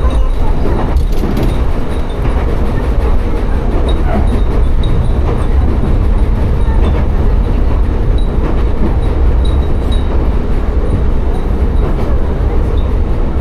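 Tsugaru Railway diesel railcar running steadily between stations, heard from on board as a loud, even rumble. Brief faint high tinkles come and go, fitting the wind chimes hung in the car.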